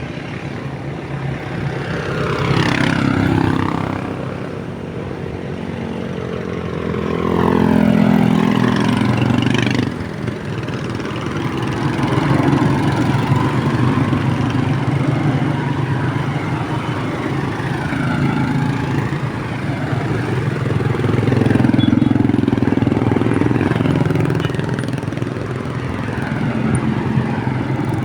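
Motorcycles riding past one after another, a steady mix of engines, with the pitch rising and falling each time one passes close, several times.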